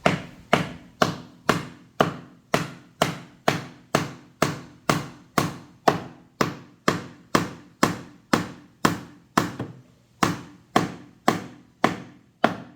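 A hammer striking a nail into wood with steady, evenly spaced blows, about two a second, each with a short ring.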